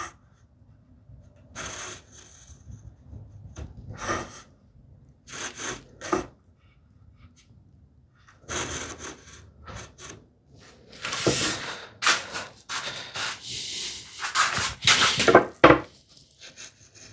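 Marking gauge cutter scraping along cherry wood in a series of strokes, scoring and deepening a layout line for a hinge mortise. The first strokes are short and spaced apart; the later ones are longer and louder.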